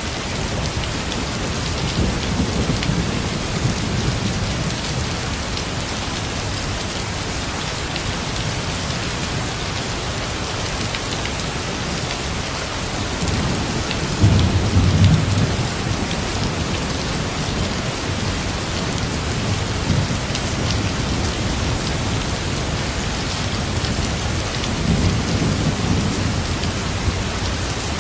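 Steady rain pouring down, with low rolls of thunder swelling three times; the loudest comes about halfway through.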